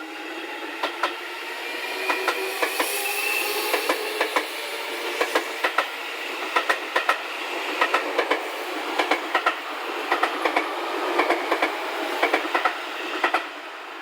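Seibu 40000-series electric train pulling out of a station: its motor whine rises in pitch over the first few seconds as it accelerates. Then come steady paired clacks as its wheels pass over the rail joints, stopping shortly before the end.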